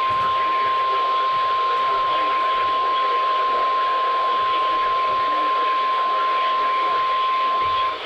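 Emergency Alert System attention signal during a required weekly test: a single steady 1050 Hz alert tone, the weather-radio type, heard over radio hiss. The tone cuts off sharply near the end.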